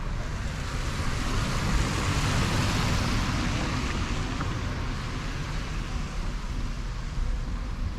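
A car passing by on a city street: tyre and engine noise that swells, peaks about two to three seconds in, then fades away.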